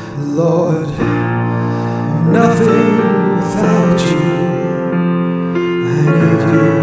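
A song playing: a voice sings a few sustained, wavering notes over piano and keyboard accompaniment.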